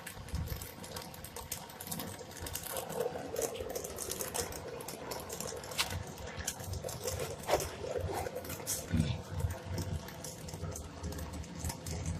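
Brazing torch hissing against a refrigerator's copper-to-steel line joint, with many irregular sharp crackles and clicks.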